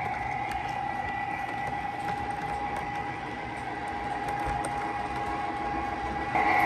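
O gauge model train (Lionel GP-30 diesel locomotive with boxcars) running on the track: a steady whine over the rumble of wheels on the rails, getting louder just before the end.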